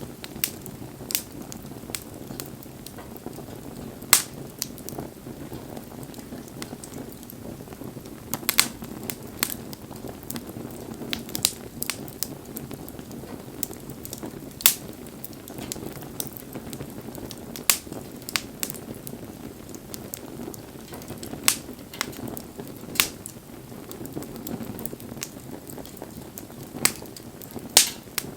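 Wood fire burning: a steady low rush of flame with irregular sharp crackles and pops, the loudest few seconds apart among many smaller ticks.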